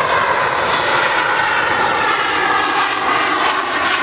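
Eurofighter Typhoon's twin jet engines heard in flight during a display, a loud, steady jet noise.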